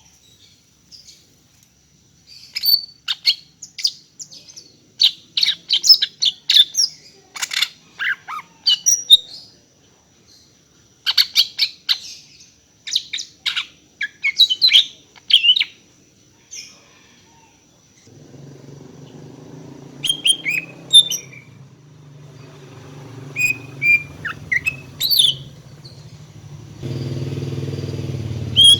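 Female cucak ijo (green leafbird) calling for a male, in breeding condition: quick clusters of sharp high chirps and short whistled notes separated by pauses. A low steady hum comes in about two-thirds of the way through and grows louder near the end.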